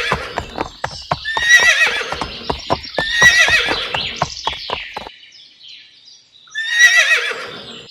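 Horse whinnying three times, with a quick clip-clop of hooves that stops about five seconds in.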